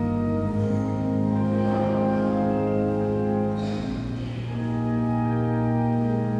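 Organ playing slow, held chords that shift to a new chord every second or two.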